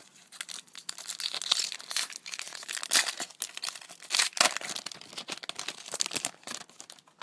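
A foil wrapper of a Topps Update baseball card pack being torn open and crinkled, in a run of irregular crackles and rustles.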